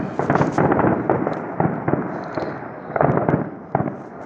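Fireworks going off in a rapid string of bangs and crackles, with a cluster of louder bangs about three seconds in.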